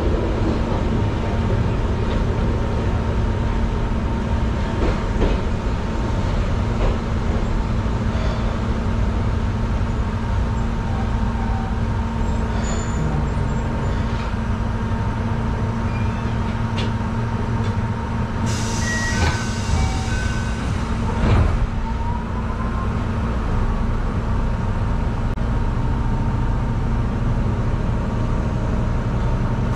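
Steady low rumble and hum of a Keihan Ishiyama-Sakamoto Line electric railcar heard from the driver's cab, with a steady whine throughout. About two-thirds through comes a brief hiss of air, with a few short beeps and a knock.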